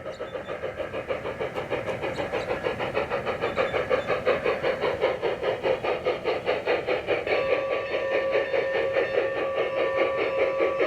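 Onboard sound unit of a battery-powered G-scale model steam locomotive, chuffing in a rapid, even beat at about six a second. About seven seconds in, a long steady whistle blast starts and holds over the chuffing.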